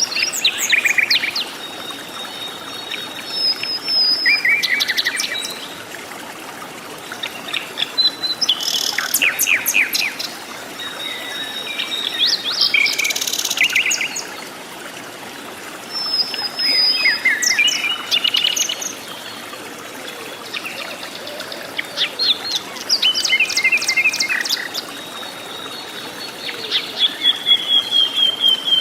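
Several forest birds calling and singing over one another, with short chirps, whistled notes and trills. Near the end comes a fast run of repeated notes. Under them is a steady background hiss.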